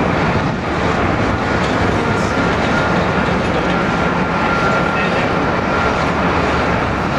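Jet aircraft engines running: a steady noise with a thin, high, steady whine.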